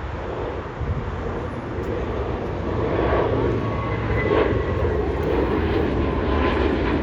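Jet airliner's engines at takeoff power, a steady roar growing louder as the plane passes, with a faint high whine over it.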